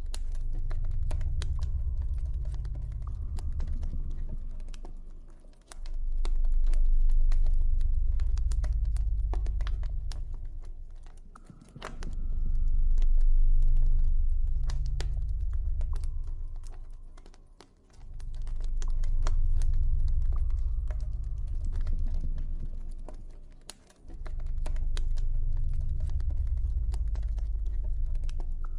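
Campfire crackling: a steady scatter of sharp pops and snaps. Under it, a deep synthesized ambient drone swells and fades about every six seconds, five times over, and is the loudest sound.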